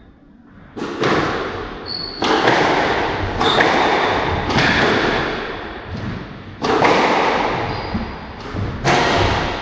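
Squash rally: the ball is struck by the rackets and hits the court walls, giving a sharp crack every one to two seconds that echoes off the walls. Short high shoe squeaks from the players' footwork come between the shots.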